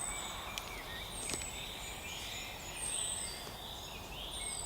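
Woodland birds calling: a short, high, thin falling call repeats about every one and a half seconds over softer chirps and raspy notes, with a faint steady outdoor hiss underneath.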